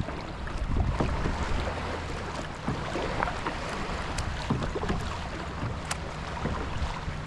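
Water splashing and dripping around a kayak as it is paddled, with irregular small splashes and wind noise on the microphone over a steady low hum.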